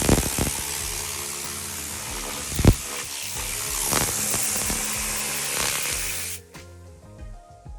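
Tornador air-powered spray gun hissing as it blasts trim dressing onto plastic, the spray cutting off suddenly about six seconds in. A single sharp knock sounds near the middle, with background music underneath.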